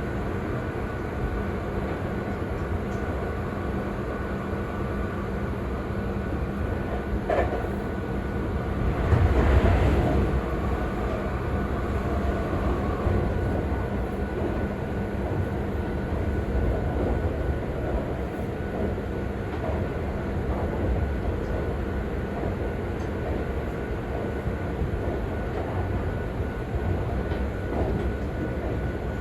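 Seibu 40000-series electric train running at speed, heard from inside a car: a steady rumble of wheels on rail under a constant motor hum. There is a sharp click about seven seconds in, and the rumble swells louder for a moment around nine to ten seconds in.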